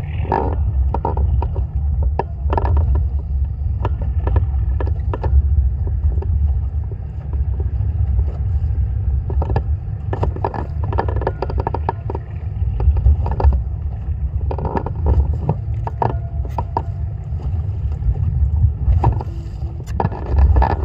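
Boat motor running steadily at sea, a deep continuous rumble, with frequent irregular knocks and slaps over it.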